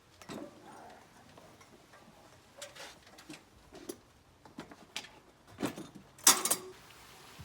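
Scattered light clicks and knocks of tools and hardware being handled, with a louder clatter about six seconds in.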